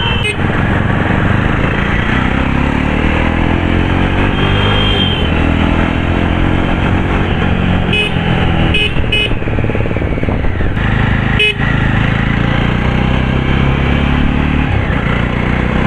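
Jawa Classic 300's single-cylinder engine pulling under acceleration through its twin exhausts, the revs rising and then holding, with a slight buzz at the top end. Vehicle horns honk briefly a few times.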